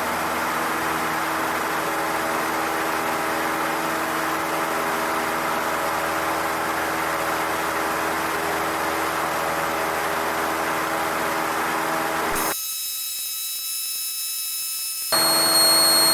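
Cessna 152's four-cylinder Lycoming O-235 engine and propeller running steadily, heard inside the cockpit during the climb-out after takeoff. About 12 seconds in, the engine sound cuts out abruptly and leaves only faint high electronic tones. A louder hum with high whistle tones takes over about three seconds later.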